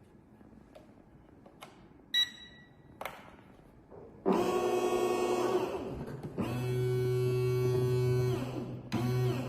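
Electric motors of a remote-control bait boat whirring in runs, their pitch sliding up and down as they speed up and slow down. A few clicks and a short beep come first, about two seconds in.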